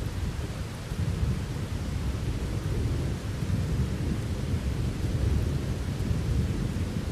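Thunder rumbling continuously under steady rain, a deep rolling rumble over the even hiss of falling rain, swelling a little about a second in.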